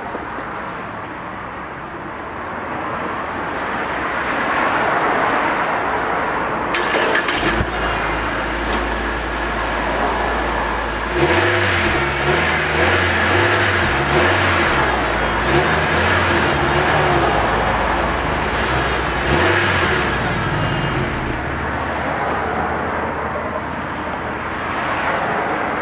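Nissan Juke's four-cylinder turbo engine heard at the exhaust, idling, then revved up and down several times in the middle before settling back to idle.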